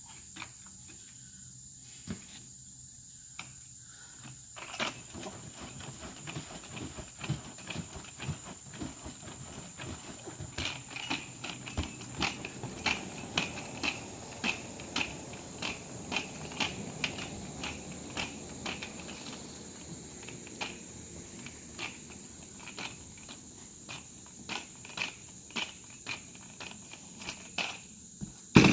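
Liquid sloshing and knocking inside a lidded 5-gallon plastic bucket as it is shaken to mix truck wash concentrate. The shaking starts about four seconds in and keeps a steady rhythm of roughly one to two knocks a second.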